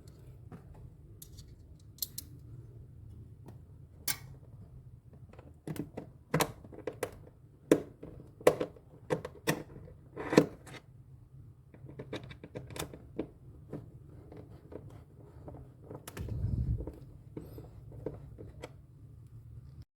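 Irregular sharp clicks, taps and knocks of hand work on refrigerator parts, coming thickest in a cluster through the middle, with a brief low thump-like rumble near the end.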